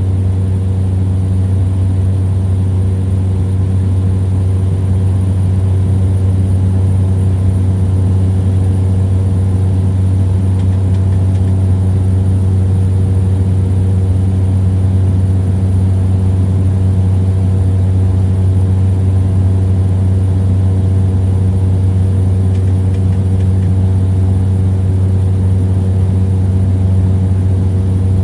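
Small plane's piston engine and propeller droning steadily in a climb, a constant deep hum with steady higher tones over it.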